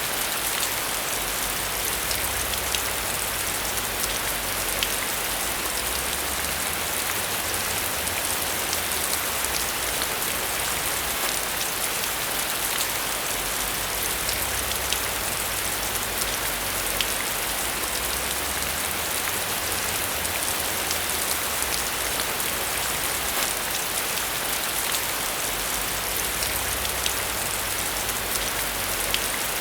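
Steady rain falling onto a surface, a dense even hiss dotted with many small drop ticks, with a low rumble underneath that swells and fades every few seconds.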